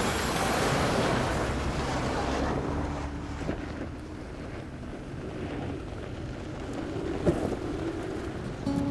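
Off-road vehicle driving on a dirt trail: steady engine and tyre rumble with wind on the microphone, louder for the first couple of seconds and then easing, with a single sharp click about seven seconds in.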